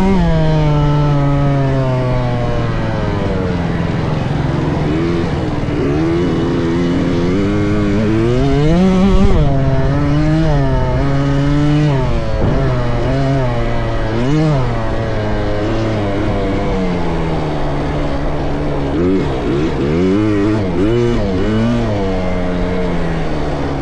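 Small two-stroke KTM 65 youth motocross bike engine revving up and falling back over and over as it is ridden around the track, pitch climbing and dropping with the throttle and gear changes. The strongest surge comes about nine seconds in, and there is a quick run of short revs near the end.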